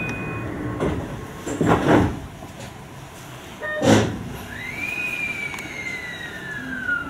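Sliding doors of a Keio 5000 series electric train thudding shut, three knocks with the loudest about four seconds in. Then a whistling electrical whine from the train rises briefly and glides slowly down.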